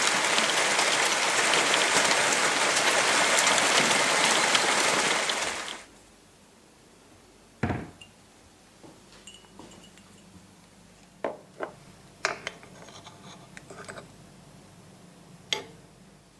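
Heavy rain pouring, which cuts off suddenly about six seconds in. Then a quiet room with a few sharp clinks of mugs and dishes while coffee is made.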